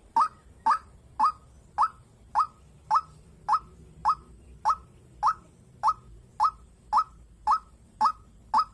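White-breasted waterhen (dahuk) calling: a short, slightly rising note repeated evenly, almost two a second.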